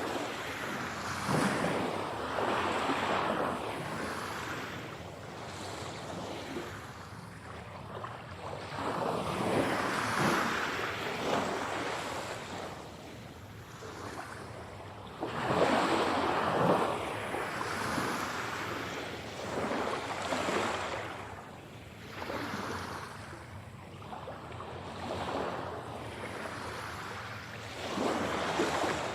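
Ocean waves breaking on a shore: a continuous wash of surf that swells and recedes, with a wave breaking every few seconds, the loudest about halfway through.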